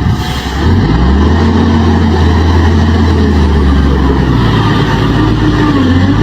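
Heavy truck's diesel engine revving up about a second in, then running loud and steady, its pitch climbing again near the end.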